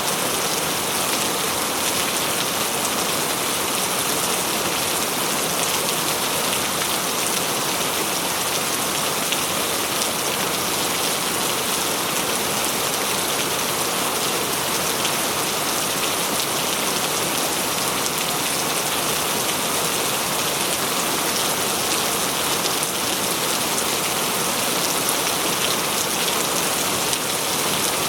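Steady heavy rain falling and splashing on surfaces, a dense even hiss with many fine drop ticks.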